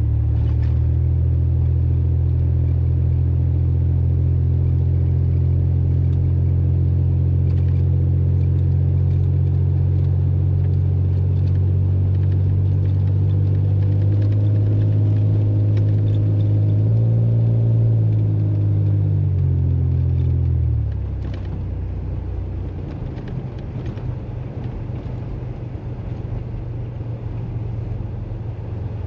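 Vehicle engine running with a steady low drone that rises a little in pitch about halfway through, then drops away about two-thirds in, leaving a quieter rumble.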